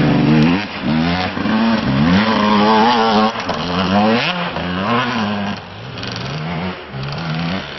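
Motocross motorcycle engines revving hard, their pitch climbing and dropping again and again with throttle and gear changes. Loud at first, then quieter after about five and a half seconds.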